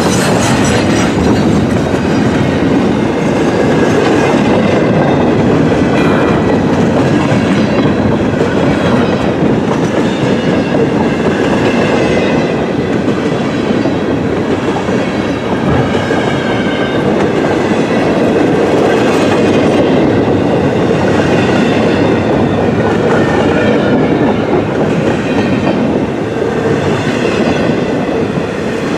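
Double-stack intermodal freight train's well cars rolling past on the near track: a loud, steady wheel-on-rail rumble and rattle.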